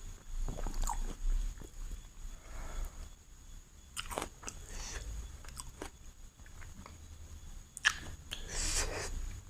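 Close-miked chewing and biting of chicken biryani, with irregular wet mouth clicks and smacks. The sharpest click comes near the end.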